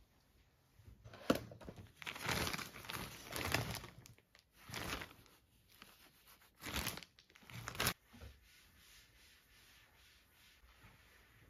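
Packaging being crinkled and torn in several irregular bursts of rustling, with a sharp snap about a second in and another at about eight seconds, after which it goes quiet.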